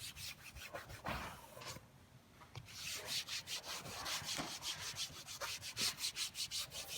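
Rag rubbed back and forth along the edge banding of a wooden cabinet panel, scrubbing off glue residue with lacquer thinner. After a short pause about two seconds in, the strokes come fast and even, about four or five a second.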